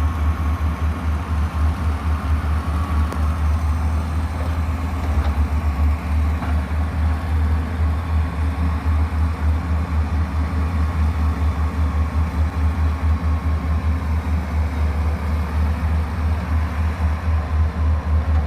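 Heavy construction machine's engine running steadily, a continuous low rumble with a throbbing pulse.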